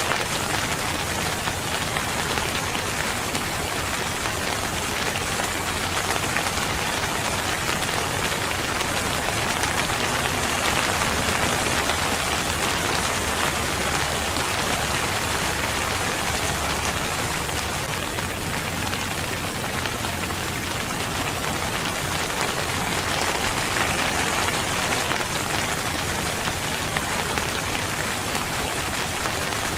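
Rain falling steadily, an even wash of many drops with no breaks or changes.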